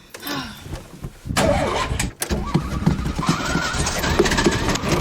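Renault 9's engine cranking on the starter, beginning about a second in, without catching: a hard start on an engine that is almost flooded.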